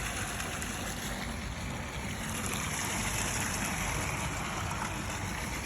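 Steady running water: the pond filter's return pipe pouring back into the pool now that the pump has pushed water through.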